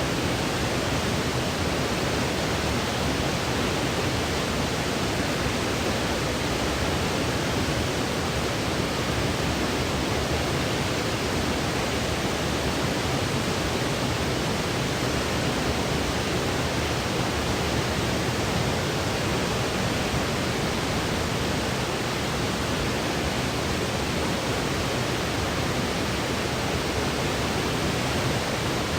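Steady synthetic white noise: an even, unchanging hiss with no pattern or breaks.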